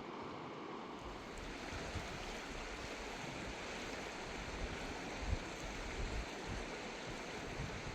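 Steady rushing of a wild river's flowing water, with a few short low bumps, the loudest about five seconds in.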